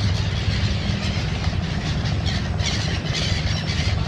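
Birds giving a rapid, irregular series of short high-pitched calls over a steady low engine hum.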